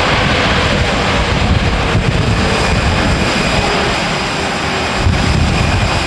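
Jet airliner's engines running as it passes, a steady roar with a faint whine that drops slightly in pitch, while gusts of wind buffet the microphone.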